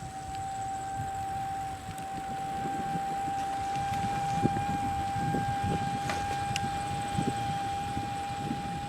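A single steady high-pitched tone held unchanged for about nine seconds, over a low uneven rumble of wind on the microphone.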